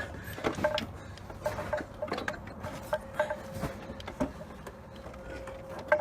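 Scattered light knocks and clinks of metal parts as a rotary engine is worked into the engine bay and lined up with the transmission, over a faint steady hum.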